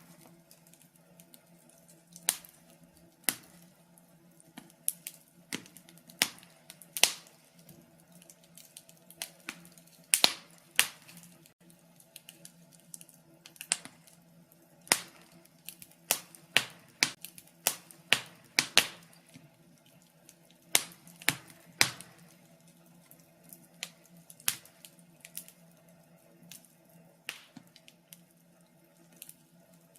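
Birch logs burning in a fireplace, crackling with irregular sharp pops, a few every second or two and louder around ten and eighteen seconds in, over a faint steady low hum.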